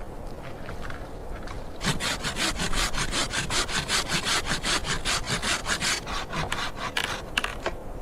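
Hand saw cutting through wood in rapid, even strokes, starting about two seconds in and stopping about six seconds in, followed by a few scattered knocks.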